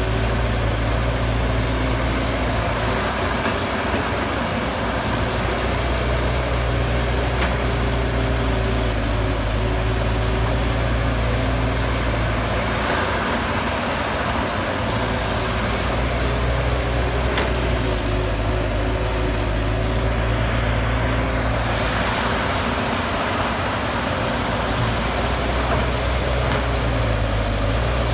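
Cat excavator's diesel engine running steadily at work, its low note dipping briefly about three times, with a few faint clicks.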